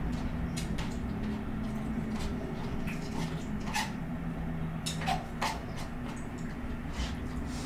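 A person eating noodles, with irregular wet mouth clicks and chewing sounds against a steady low hum.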